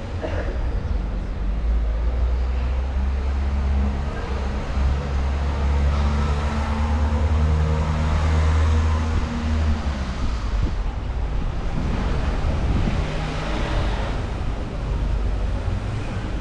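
Street traffic: a motor vehicle's engine running close by, a strong low hum that eases off about ten seconds in, over the general noise of passing cars.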